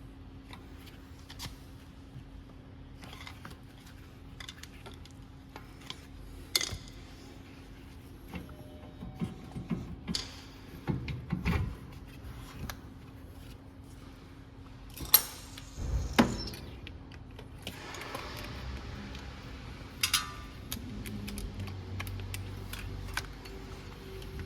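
Metal tools and parts being handled: scattered clinks, clicks and knocks, with the loudest couple of sharp knocks a little past the middle.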